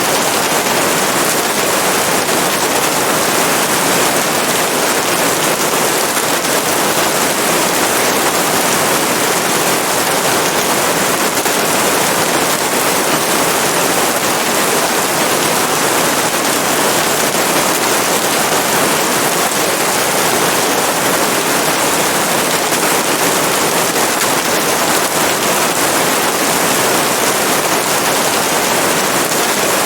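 Steady rain, an even, unbroken hiss that does not change.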